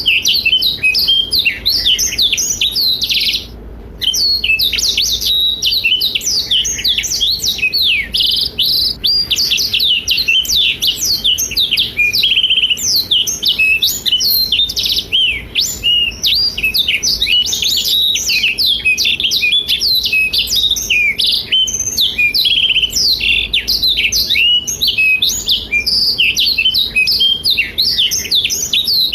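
Black-throated canary (blackthroat) singing a fast, continuous, high-pitched warbling song of rapid chirps and trills, with one brief pause about three and a half seconds in.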